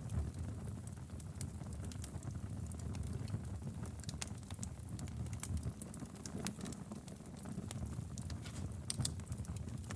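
Wood fire in a fireplace crackling, with frequent irregular sharp pops over a low, steady rumble of the flames.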